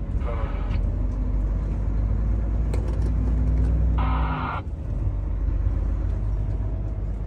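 Heavy truck's diesel engine running under way, a steady low rumble heard from inside the cab. The rumble swells slightly a few seconds in, then dips briefly about four and a half seconds in.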